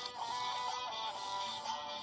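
Clever Keet robot parrot toy playing a short recorded dance tune through its built-in speaker: a plucked, guitar-like melody of steady notes stepping up and down.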